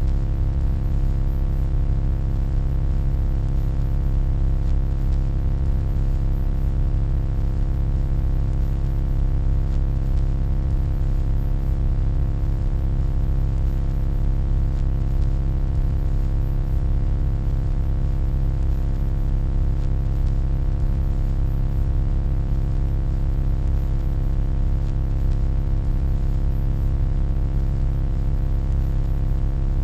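Steady electronic hum: a deep, low drone with a stack of faint steady tones above it, unchanging throughout.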